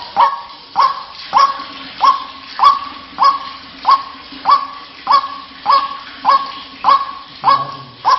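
White-breasted waterhen (ruak-ruak) calling over and over, a sharp note repeated about every 0.6 seconds, each at much the same pitch.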